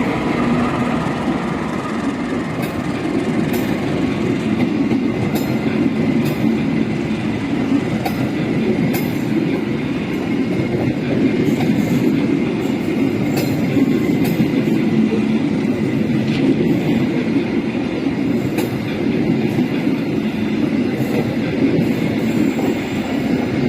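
Argo Wilis passenger train passing close by, its carriages rumbling steadily, with the wheels clacking over the rail joints again and again.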